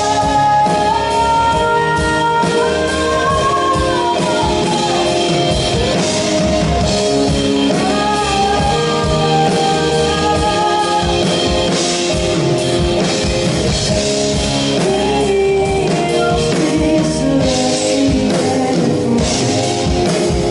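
Live band performance of a pop-rock song: drum kit and electric guitar, with a sung melody carried over them.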